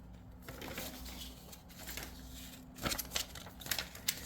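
Faint rustling and a few light clicks of paper leaflets being handled, over a low steady hum.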